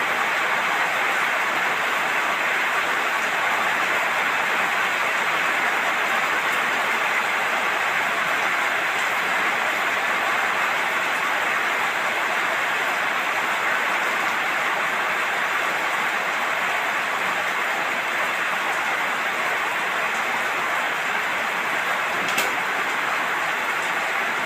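Steady heavy rainfall, an even unbroken hiss, with a single faint tap about 22 seconds in.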